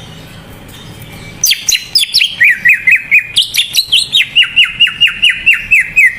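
Cucak ijo (greater green leafbird) in full song: about a second and a half in, a loud rapid run of sharp downslurred whistled notes starts, about three or four a second.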